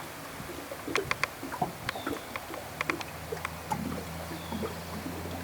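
Waves sloshing and splashing on the shore, with many scattered small clicks and knocks. A low steady hum comes in about three seconds in.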